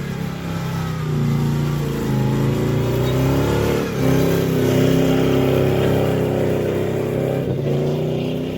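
1993 Chevy pickup's engine revving hard, its pitch rising and falling, with brief drops about four seconds in and again about seven and a half seconds in. The engine is worn out and running on a dead cylinder.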